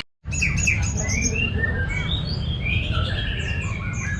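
Songbirds singing: a run of varied whistled phrases and quick chirps over a steady low background rumble. The sound cuts out completely for a moment at the very start.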